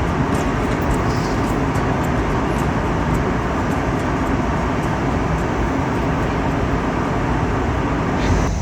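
Steady in-flight cabin noise of an Airbus A321neo: a constant rush of airflow and engine drone heard from inside the cabin. Near the end a faint high tone comes in as the cabin PA switches on.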